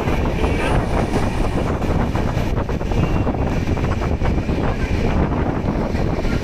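Train in motion: a steady rumble with rattling from the carriage, and wind buffeting the microphone.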